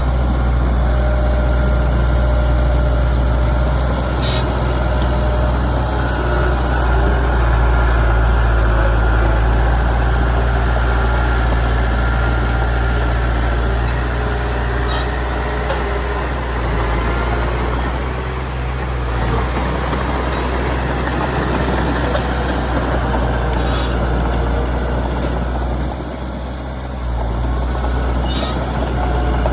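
Heavy diesel engine of earthmoving equipment running steadily with a deep rumble, with a few brief high clinks about 4, 15, 24 and 28 seconds in.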